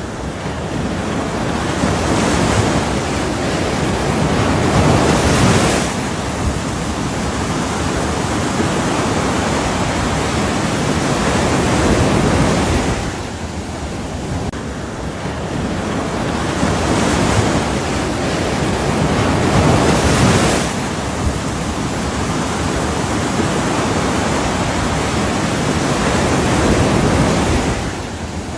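Ocean waves breaking, a continuous wash of surf that swells and ebbs every few seconds.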